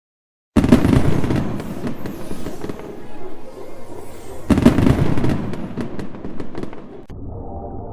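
Fireworks sound effect: two loud bangs about four seconds apart, each followed by crackling that dies away. Just before the end it cuts to a quieter, muffled sound with faint steady tones.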